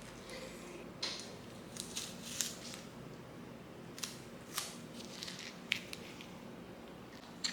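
Scattered light clicks and snips of small hand work, about eight or ten sharp ticks at uneven intervals over a faint steady room hum.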